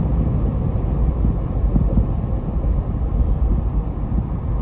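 Car driving at a steady speed: an even low rumble of road and engine noise.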